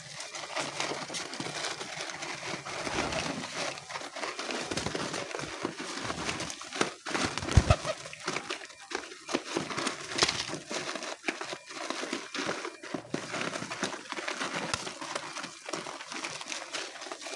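A flock of homing pigeons moving about: a dense run of short rustles, clicks and flutters, with one louder thump about seven and a half seconds in.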